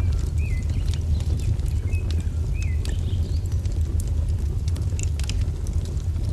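Wood fire crackling, with scattered sharp pops over a steady low rumble. A small bird gives a few short chirps in the first three seconds.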